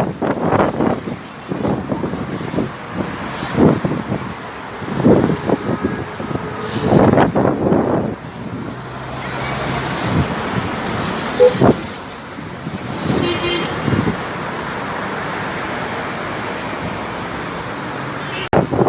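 Road traffic passing, with a car horn sounding briefly about two-thirds of the way through, then a steady rush of traffic.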